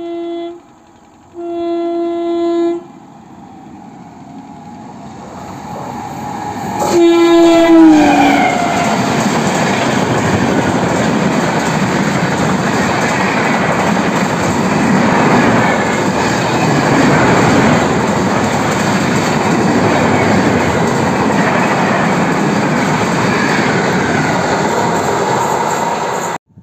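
Indian Railways express train's horn sounds two blasts, then a third about seven seconds in that drops in pitch as the locomotive passes close. The loud, steady rush and clatter of the coaches running through at speed follows.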